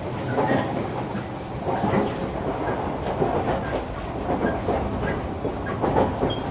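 Cabin running noise of a JR Kyushu 305 series electric train's motor car at speed: a steady rumble, with wheels clacking over rail joints several times.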